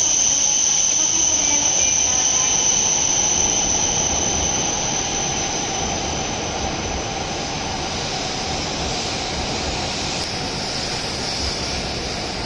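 E7-series Shinkansen train slowing into a platform under braking: a steady high-pitched squeal over the rumble of the wheels and running gear. The sound gradually fades as the train comes down to walking pace, and the squeal drops slightly in pitch near the end.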